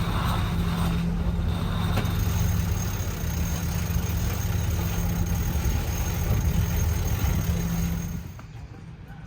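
Sailing yacht's auxiliary engine running steadily at a low, even pitch under way, cutting off abruptly near the end.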